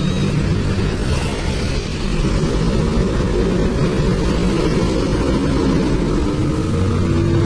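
Large bus engine running with a loud, steady low rumble.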